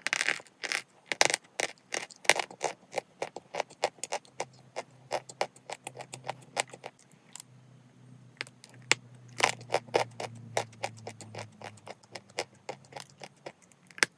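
Chalk being bitten and chewed: many quick, irregular crunches and snaps, with a short pause about halfway through.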